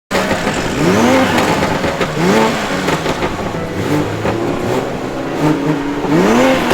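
Car engine revving hard: it climbs in pitch in three quick rev-ups, with the revs held steady for a moment in between, over a loud noisy background.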